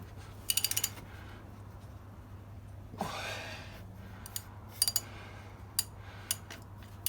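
Socket and breaker bar working a rusted exhaust manifold bolt loose: a quick run of light metal clicks about half a second in, a breath about three seconds in, then scattered single clicks.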